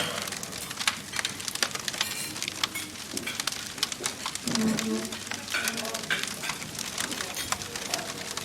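A wood fire crackling with irregular sharp pops, under the indistinct murmur of people talking at a meal. One voice comes up briefly near the middle.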